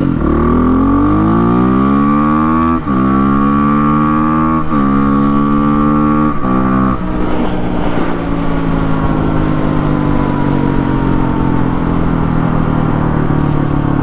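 Kawasaki KLX300R's 292 cc single-cylinder engine, breathing through an open airbox and an FMF Powercore exhaust, accelerating through the gears: revs climb and drop sharply at upshifts about 3, 5 and 6.5 seconds in. The throttle then eases off and the revs sink slowly.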